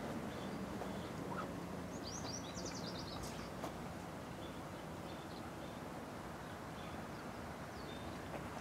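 Steady outdoor background noise with a bird's quick run of high chirps about two seconds in, and a few fainter chirps later.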